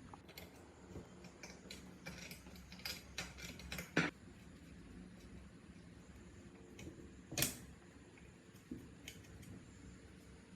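Scattered clicks and light knocks of hand tools and metal parts being handled, with two louder knocks about four seconds in and about seven seconds in.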